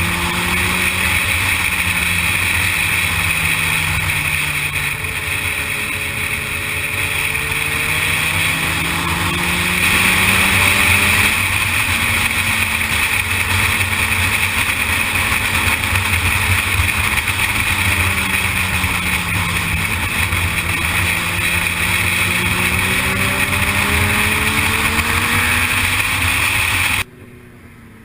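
Sportbike engine running at road speed, its pitch rising and falling several times with throttle changes, under heavy wind noise on the microphone. The sound drops suddenly to a much quieter level about a second before the end.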